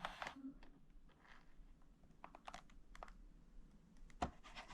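Scattered faint clicks and rustles of objects being handled, with one sharper tap or knock near the end.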